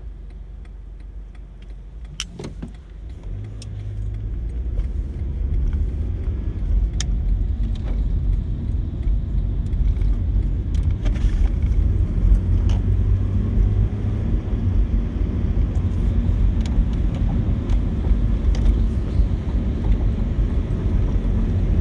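Car road noise heard from inside the cabin as the car pulls away: a low rumble that builds over the first few seconds and then runs steadily, with scattered light clicks.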